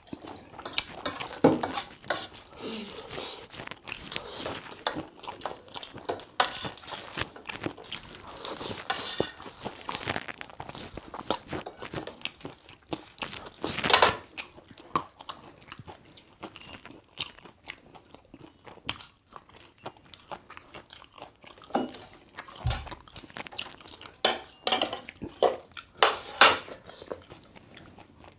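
A person eating: biting and chewing with crunches and irregular short clicks.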